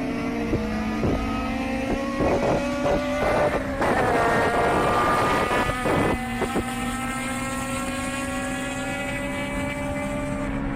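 Honda K20 four-cylinder engine running hard, its pitch climbing for the first few seconds. A burst of crackles and pops follows, and another short one about six seconds in. Then the engine holds a steady note that eases slowly down.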